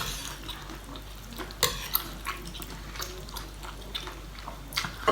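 Someone chewing and smacking wetly on a mouthful of spicy seafood salad, with a string of small wet clicks and a couple of sharper smacks, one about one and a half seconds in and one near the end.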